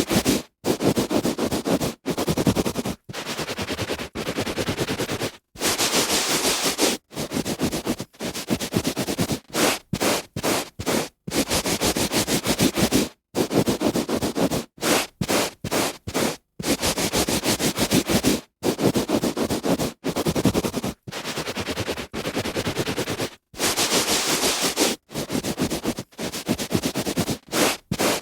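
A hand rubbing back and forth on carpet: a string of scratchy strokes, some short, some lasting a second or more, each broken off by a brief silence.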